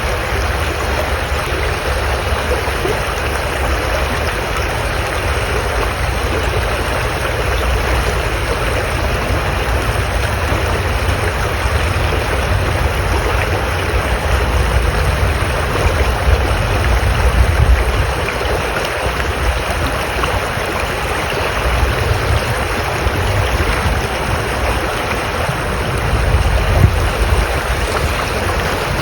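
Steady rushing of running water, with an uneven low rumble underneath.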